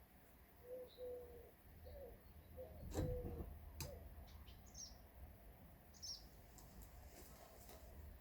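A dove cooing faintly in short repeated low phrases, with a few brief high bird chirps, and two sharp knocks about three and four seconds in, the first the loudest.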